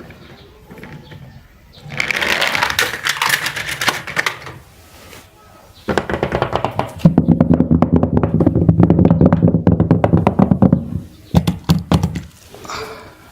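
Toy vehicles clattering as they roll down a plastic slide: a short burst of rattling, then a longer run of rapid clicking over a low steady hum, ending with a few sharp knocks.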